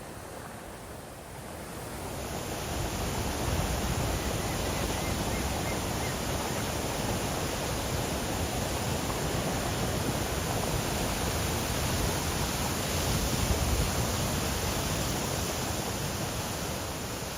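Steady roar of the Iguazu waterfalls, a dense even rush of falling water that swells up over the first couple of seconds and then holds.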